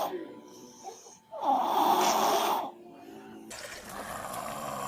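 A baby making a loud, harsh vocal noise, once, about a second long, starting about a second and a half in.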